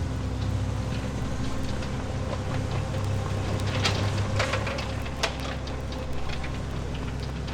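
A motor running steadily with a low hum, with a few sharp clicks and knocks about four to five seconds in.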